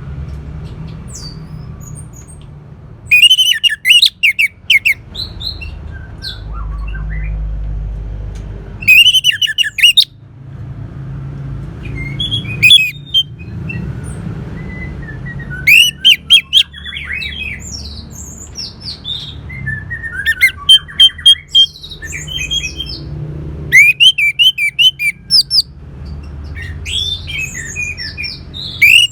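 Orange-headed thrush singing in loud bursts of rapid, varied whistled phrases, one burst every three to five seconds, with a low steady rumble underneath.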